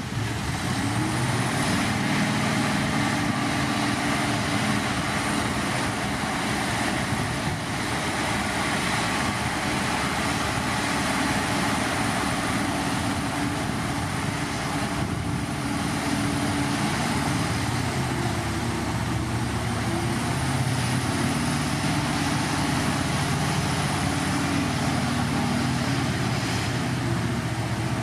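Heavy diesel earthmoving machinery running steadily, the engine note shifting slightly in pitch over a constant mechanical din.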